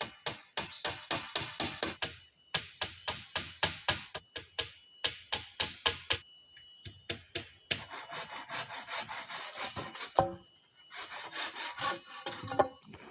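Hand saw cutting wood in quick, even strokes, about three or four a second, then slower, rougher cutting with a few knocks, under background music.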